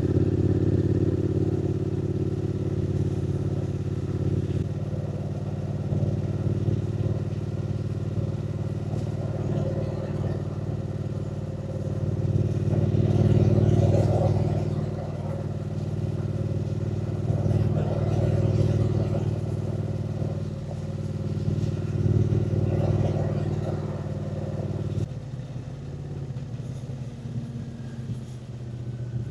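Triumph Speed Twin 900's parallel-twin engine running under way, swelling in loudness a few times as the throttle opens. About 25 seconds in the engine note drops and becomes quieter.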